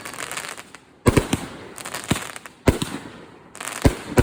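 Consumer 500 g firework cakes firing: aerial shells burst in sharp booms, five or six of them from about a second in, with crackling between.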